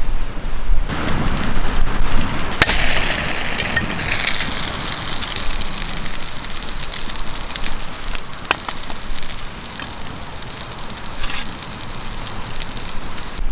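Wood campfire burning, a hissing crackle with scattered sharp pops, swelling about a second in.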